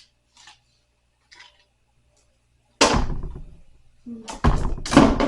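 Knocks and clatter of a flat-pack night stand's panels and parts being handled as it is taken apart: a few faint clicks, then a loud knock about three seconds in, and several more loud knocks near the end.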